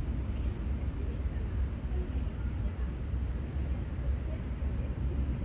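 Steady low outdoor rumble of a seaside field recording, with faint high chirps repeating in short runs of about four.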